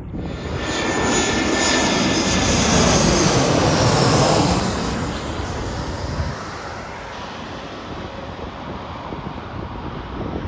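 Jet airliner passing close by. Its engine noise swells over the first couple of seconds, peaks with a sweeping whoosh around four seconds in, then eases back to a steady fading rumble.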